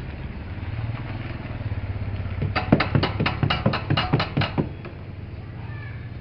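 A quick, even run of about nine sharp knocks, about four a second, lasting two seconds and starting a little past halfway in, over a steady low hum.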